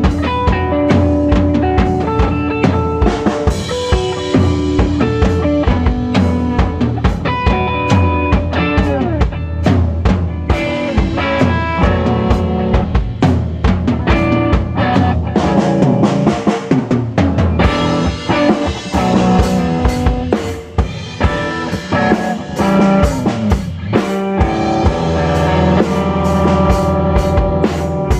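A rock band jamming live: a drum kit with bass drum and snare under sustained pitched instrument notes. About two-thirds of the way through, the drumming turns to fast, even hits.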